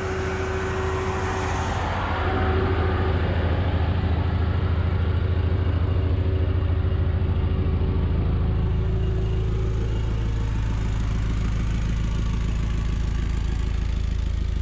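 Volkswagen Passat B5's 1.8 20-valve four-cylinder petrol engine idling steadily, heard close to the exhaust tailpipe. It gets a little louder about two seconds in.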